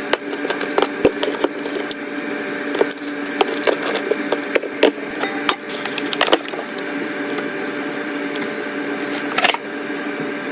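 Food containers and bottles being set down and arranged in a refrigerator: an irregular string of light clicks, taps and knocks of plastic and glass on shelves.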